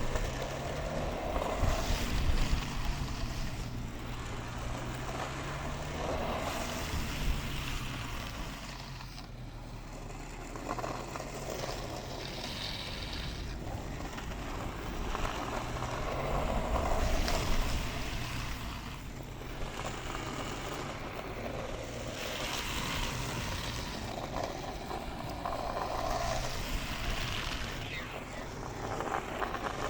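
Wind rushing over the microphone over the rolling roar of 65 mm urethane longboard wheels on asphalt at downhill speed, swelling and easing every few seconds.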